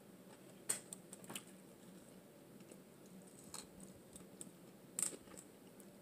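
Faint mouth sounds of eating fried catfish: a handful of short, sharp crunchy clicks and smacks, spaced a second or more apart, over quiet room tone.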